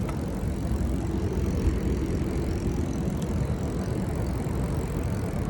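Wind on the microphone and tyre noise from a moving bicycle: a steady, low noise without breaks.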